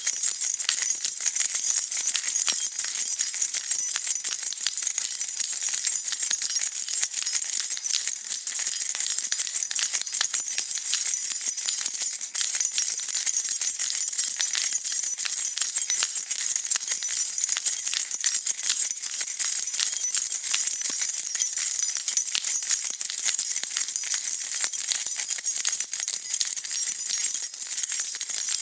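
A bunch of metal keys on a key ring jingling continuously as they are shaken, a dense stream of bright clinks with no pauses.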